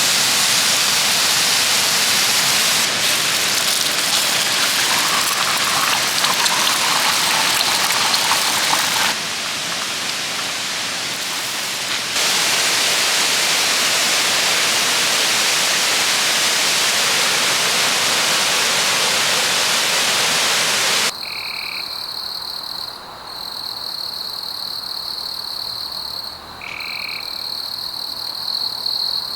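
Waterfall pouring, a loud steady rush of water that shifts a little in level twice. About three quarters of the way through it cuts off suddenly, giving way to a quieter, steady high-pitched animal chorus with two short lower calls.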